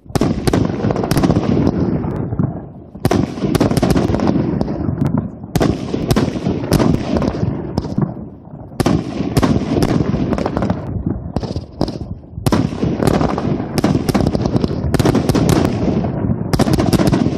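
Consumer firework cake firing rapid, nearly continuous volleys of bangs and pops, with short lulls about three, nine and twelve seconds in.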